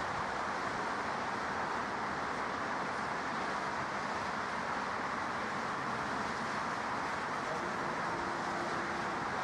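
Steady rushing noise of airport ambience, even in level throughout, with a brief faint tone near the end.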